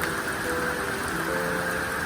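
Steady heavy rain falling, with soft background music of held notes changing about every half second.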